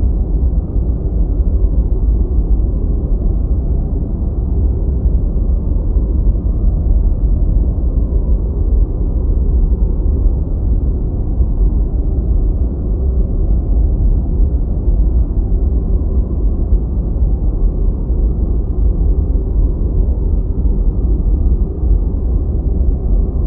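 Deep white noise: a steady, unchanging rumbling hiss weighted heavily toward the bass, with almost nothing in the upper treble.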